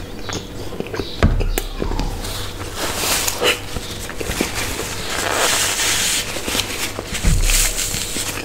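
Close-miked chewing of a mouthful of soft bread bun, with wet mouth clicks and smacks, and two low thumps, about a second in and near the end. Near the end a paper tissue rustles against the mouth.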